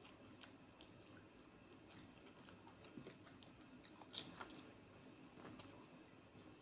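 Faint close-up chewing of masala-fried fish and rice eaten by hand, with small, scattered wet mouth clicks; the sharpest click comes about four seconds in.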